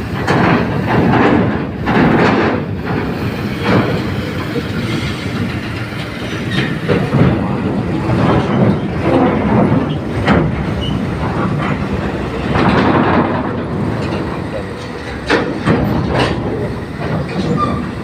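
Heavy trucks maneuvering on a ferry's steel car deck during loading: diesel engines running under a steady low rumble, with repeated irregular metallic clanks and rattles.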